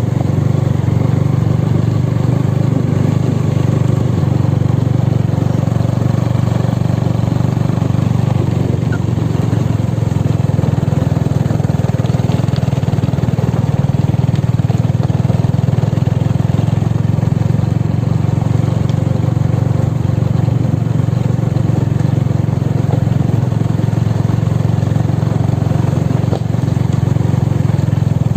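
Motorcycle engine running steadily while riding, with a constant low drone and road noise.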